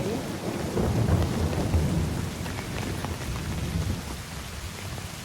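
Steady rain falling, with a low rumble that eases off after about four seconds.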